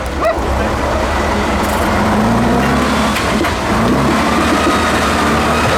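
Off-road trial truck's engine running under load, its pitch rising and falling.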